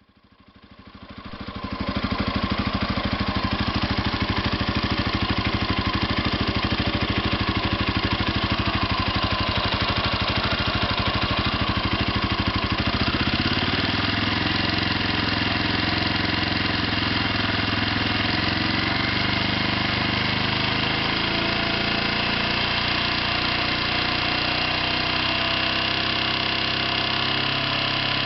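Irbis TTR250R motorcycle engine running steadily at idle, with a knock that the owner is showing. The sound fades in over the first two seconds, and the engine's low note shifts about halfway through.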